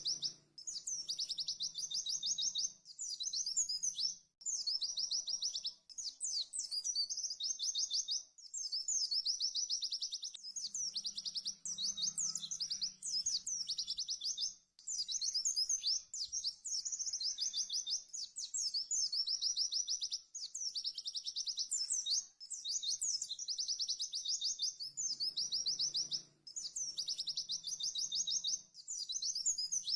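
White-eye (pleci) singing its fast 'tembakan' song: rapid, high, trilled phrases a couple of seconds long, repeated with short breaks between them.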